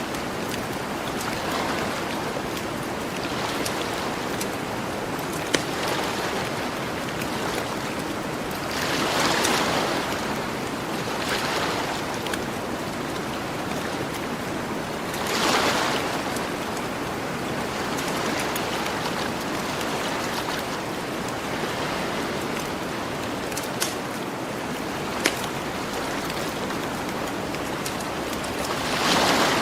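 Gentle ocean waves washing onto a beach in a steady hiss, swelling as a wave breaks every several seconds, with a few sharp pops from a crackling campfire.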